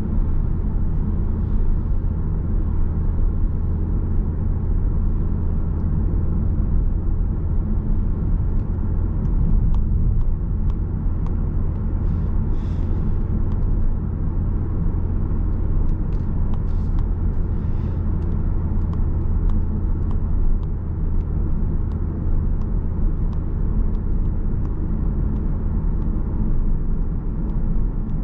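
Steady low drone of engine, road and tyre noise heard inside a car's cabin while it coasts down a long hill, the engine off the throttle.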